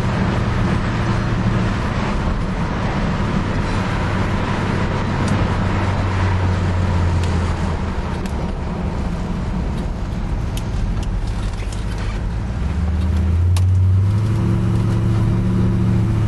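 Ford Galaxie's engine and exhaust running steadily while cruising. The engine note drops lower about halfway through, then rises and grows louder a few seconds before the end.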